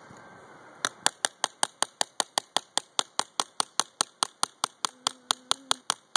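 Small hammer tapping a tiny nail into a wooden kit part: rapid, even, light blows, about five a second, starting about a second in.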